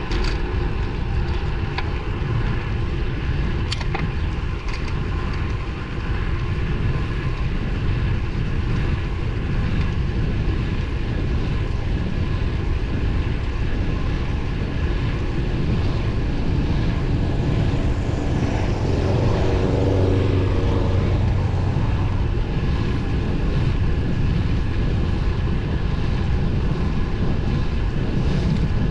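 Steady wind rush and road noise from a road bike riding along, with a motor vehicle passing about two-thirds of the way through.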